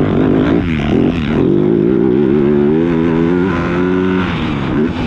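Motocross dirt bike engine riding on the track, its pitch dipping and climbing as the throttle is worked, holding steady for a moment and then dropping about four seconds in.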